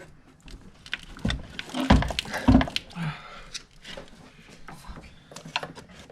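Several heavy clunks and knocks, the loudest about two and two and a half seconds in, with lighter metal clicks between, as a car engine part being removed is shaken and rocked to work it loose.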